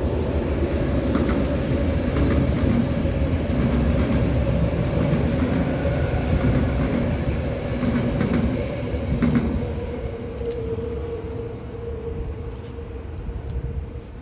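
Passenger train passing, a steady rumble of wheels on rail with a hum over it, with a few faint clicks. It fades away over the last few seconds.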